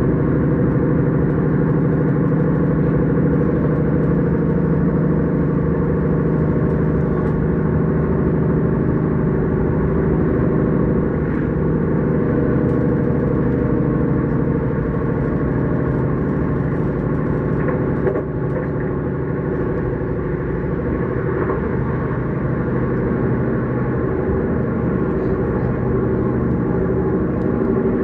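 S-Bahn electric train running, a steady humming drone that dips slightly in level about two-thirds of the way through.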